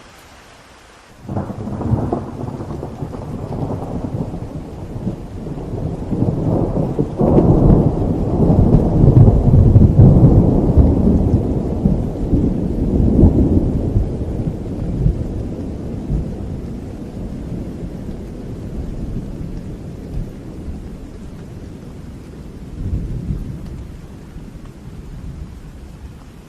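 A long roll of thunder over steady rain. It breaks in suddenly about a second in, rumbles loudest some eight to ten seconds in, and dies away slowly, with a last smaller swell near the end.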